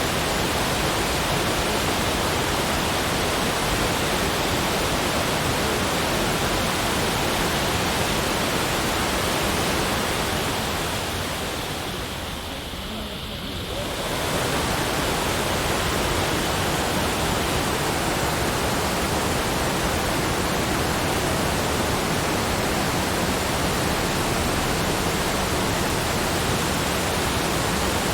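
Steady, even rushing noise with no distinct events; it dips briefly in level about twelve seconds in, then comes back.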